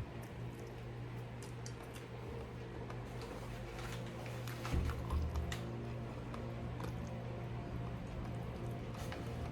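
A person eating stew: soft wet chewing with a scattering of light clicks, over a steady low hum.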